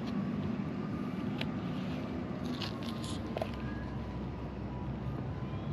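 Knife cutting through fish being filleted: soft scraping and crunching with a few small ticks, over a steady low background hum.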